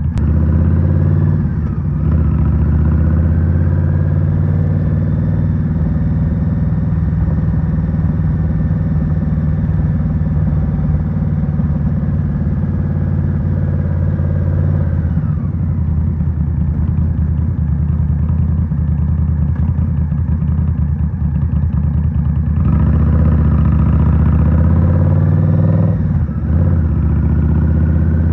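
2023 Indian Scout Rogue's liquid-cooled 69 cu-in V-twin running through a Rinehart 3.5-inch slip-on exhaust while the bike is ridden. The engine note eases off about halfway through, then grows louder with a rising pitch as the bike accelerates several seconds before the end, with a brief dip in level shortly before the end.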